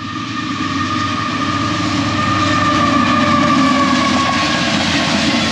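A train passing close by on the tracks: a steady rail rumble that grows louder over the first couple of seconds, with a thin high whine held above it.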